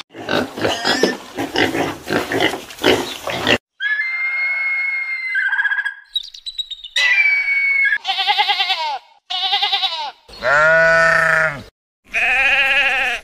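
Piglets grunting for the first three and a half seconds, then a hawk's high whistled calls, then sheep bleating four times.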